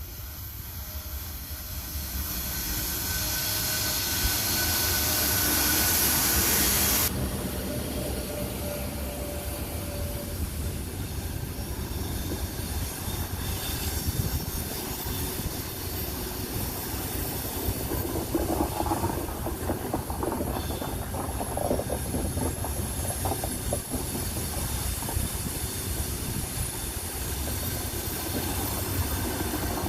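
An EP1M electric locomotive with a passenger train going by: a loud hiss builds over the first seven seconds, then drops off sharply. After that the coaches roll past with a steady rumble, wheel clicks, and wheels squealing partway through.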